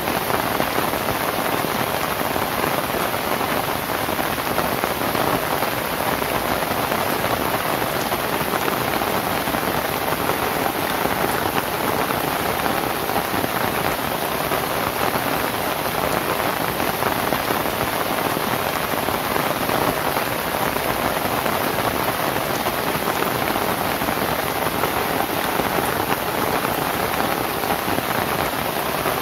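Steady rain falling on a thatched roof of lontar palm leaves: an even, unbroken hiss of drops with no let-up.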